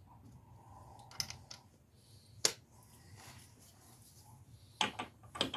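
A few sharp, separate metal clicks and knocks of hand tools and a socket being handled and fitted.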